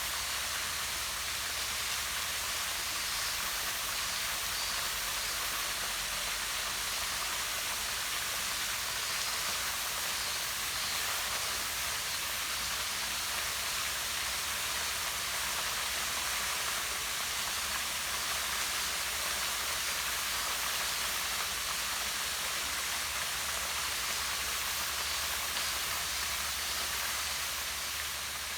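Small waterfall splashing down a rock face into a pond: a steady, unbroken rush of falling water with a hissing edge.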